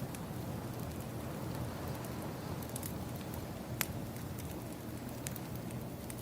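Crackling wood fire ambience mixed with ocean waves: a steady rushing hiss with a low rumble, broken by a few sharp pops of burning wood, the loudest just before the middle.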